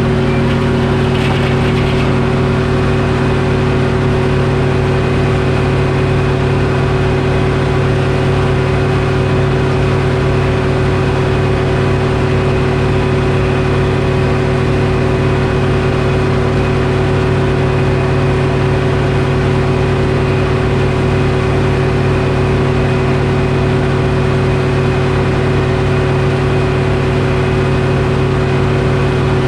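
Detroit Diesel engine powering a sawmill, running at a steady, unchanging speed.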